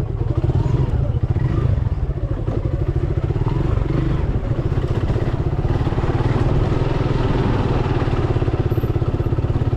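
Suzuki Gixxer 155's single-cylinder engine running steadily with an even, fast pulse.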